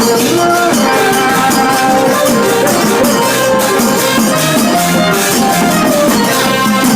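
Thai village brass band (trae wong) playing a tune: brass carrying a moving melody over steady, driving percussion.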